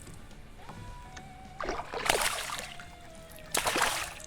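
Water splashing in two short bursts, about two seconds in and again near the end: a hooked smallmouth bass thrashing at the surface during the fight.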